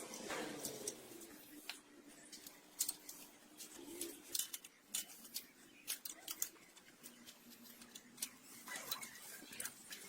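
Irregular metallic clicks and clinks of hand tools and engine parts being handled during a Toyota engine teardown, several a second with uneven spacing.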